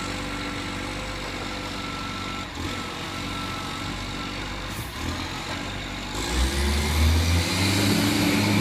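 Rubbish truck engine idling steadily, then revving up and getting louder about six seconds in.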